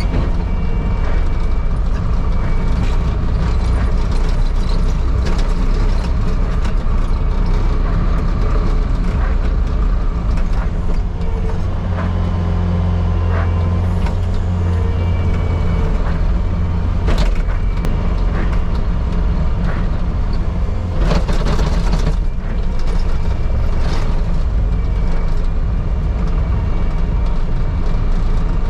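A vehicle engine running steadily with a deep drone, with scattered light clicks and rattles and a brief noisier patch about three quarters of the way through.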